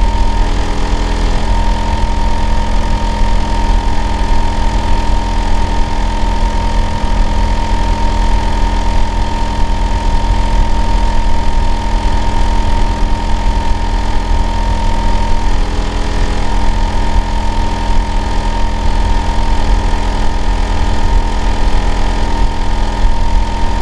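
Hitachi air-conditioner outdoor unit running steadily, with a deep hum under a persistent high-pitched whine. This is the loud, abnormal operating noise the neighbour complains of in winter.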